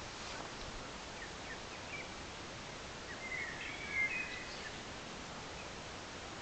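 Woodland ambience: a steady background hiss with a few short, scattered bird chirps, and a brighter burst of bird twittering about halfway through.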